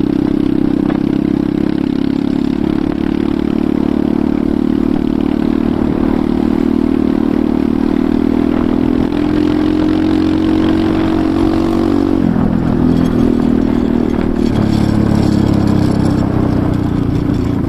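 Enduro motorcycle engine running while riding, its note climbing slowly, then dropping sharply about twelve seconds in and shifting again a couple of seconds later.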